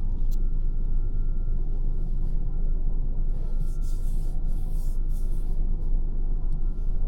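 Road and tyre rumble inside the cabin of a Lancia Ypsilon hatchback on the move: a steady deep rumble with a faint thin whine above it. Hiss rises and falls a few times around the middle.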